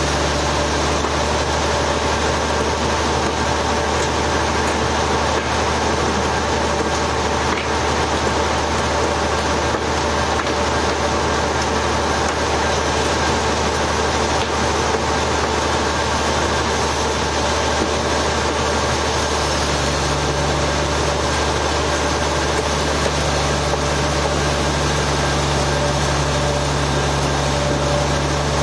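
Sawmill machinery running steadily with a constant low hum; the hum shifts slightly about two-thirds of the way through.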